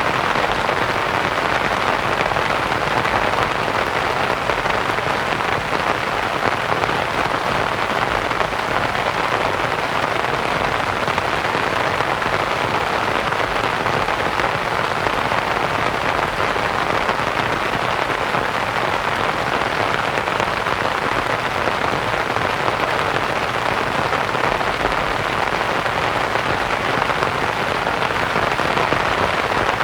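Steady rain pattering on a canvas tent, blended with a soft white-noise hiss.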